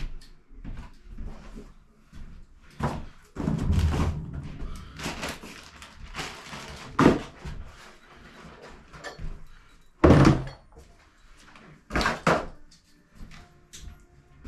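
Irregular knocks, thuds and scrapes as a removed toilet and tools are handled, the loudest about ten seconds in and again about two seconds later.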